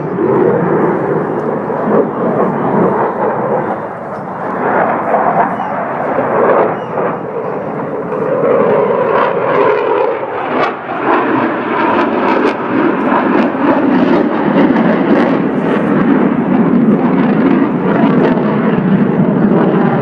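Fixed-wing aircraft engine noise, loud and sustained, swelling and easing as the aircraft flies.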